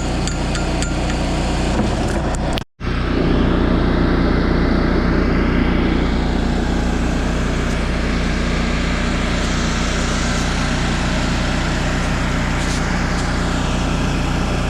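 A few seconds of sharp, evenly spaced taps, then an abrupt cut to an engine running steadily.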